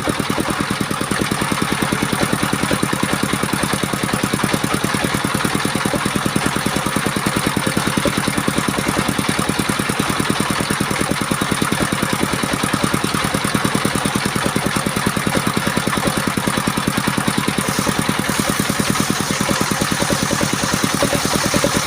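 Engine of a homemade portable circular sawmill running steadily with a rapid, even firing beat.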